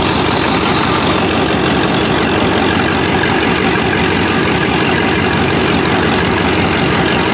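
Loud car engine running steadily with a deep, even pulse, no clear revving.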